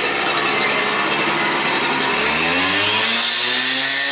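Concrete cut-off saw cutting the kerb, a loud grinding hiss, with its engine revving up about two and a half seconds in and then holding at a higher, steady pitch.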